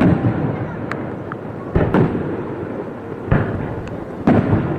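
Aerial fireworks shells bursting: three booms about a second and a half apart, with a few faint cracks before them, over a steady hiss.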